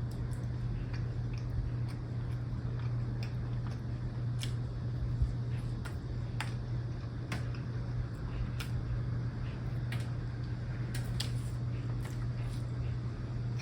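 Someone eating a Krispy Kreme doughnut up close: soft chewing with scattered small sharp clicks from the mouth and sticky glaze. A steady low hum runs underneath.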